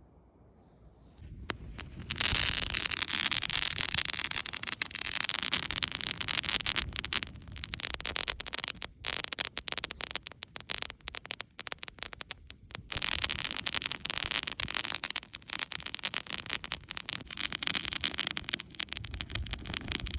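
Campfire of juniper twigs burning with dense, fast crackling, starting about a second and a half in and staying loud throughout.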